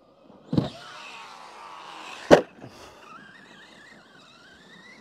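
Arrma Gorgon RC truck's 3800 kV brushless electric motor whining as it runs, with a thud about half a second in and a louder sharp crash a little after two seconds as the truck hits the ground. Near the end the motor whine rises steadily in pitch as it speeds up.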